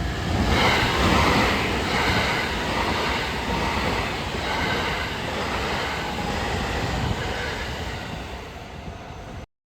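Train running on the rails, a steady rumble of wheels loudest about a second in and slowly fading.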